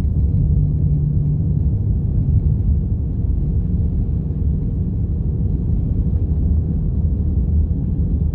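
Steady low rumble of a car driving on the highway, heard from inside the cabin: road and engine noise, with a low hum that drops out about a second and a half in.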